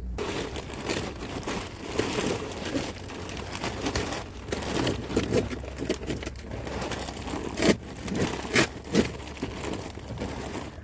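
Hands-on garden work: continuous crinkling, rustling and scraping, with a few sharp cracks about eight to nine seconds in.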